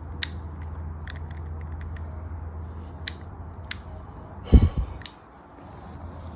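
A few sharp clicks from a 2023 Harley-Davidson Street Bob 114's handlebar power switch being pressed, with no response from the bike: it won't power on. A heavier thump comes about four and a half seconds in.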